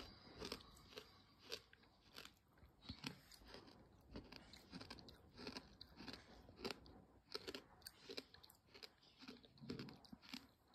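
Gritty sand chewed in small bites close to the microphone: quiet, irregular crunches, two or three a second.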